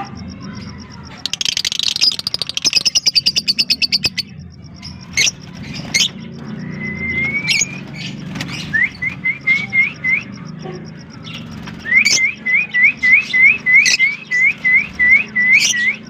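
Fischer's and blue masked lovebirds chirping: about a second in, a fast rattling chatter for about three seconds, then sharp single chirps, and two runs of quick repeated chirps at about three a second, the longer one near the end.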